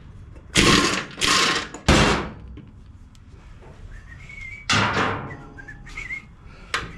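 Metal banging and clatter from working a blade spindle loose on a riding mower deck: three loud bangs in quick succession in the first two seconds, then another just before five seconds.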